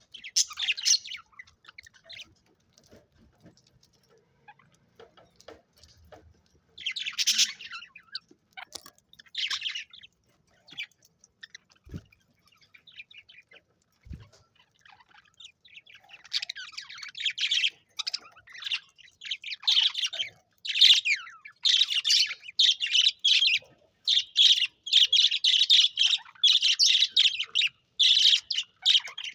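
Budgerigars chirping and squawking: a few short calls early on, then busy, almost unbroken chattering from about halfway through. Two soft knocks come in the quieter first half.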